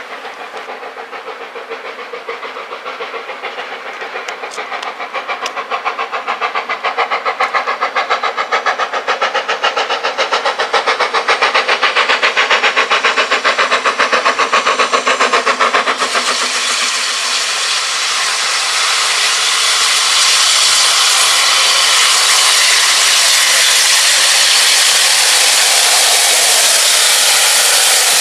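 Steam locomotive working, a fast even rhythm of beats growing steadily louder, then about 16 seconds in a steady loud hiss of steam takes over.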